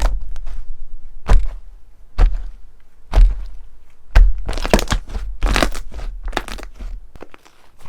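Crunchy slime being pressed and squeezed by hand, giving sharp crackles about once a second, then a dense run of crackling before it eases off near the end.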